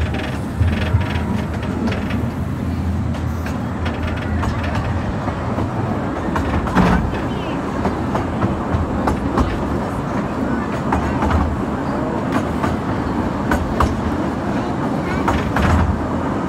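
Small amusement-park train cars rolling along the track: a steady low rumble broken by irregular clacks and knocks of the wheels on the rails.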